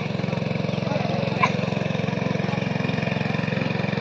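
A small engine running steadily at a fast, even beat, with one brief sharp click about a second and a half in.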